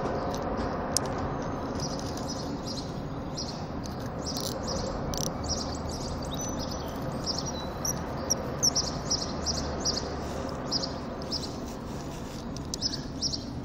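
Small birds chirping, many short high calls repeated over and over, over a steady low rushing background noise.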